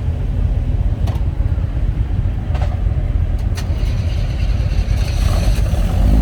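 Car engines running as cars drive slowly past, a steady low rumble with a few light clicks.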